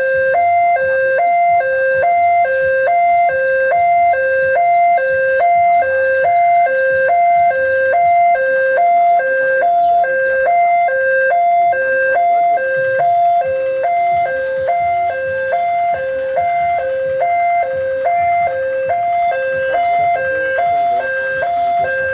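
Railway level-crossing warning alarm sounding, an electronic two-tone chime that alternates a high and a low note evenly, a little over one pair a second. It signals that a train is approaching and the crossing is closing.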